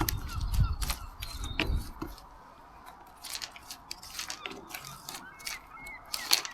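Leaf and twig debris being scraped and scooped by hand off a shed roof: irregular crackling and rustling, with a low rumble during the first two seconds.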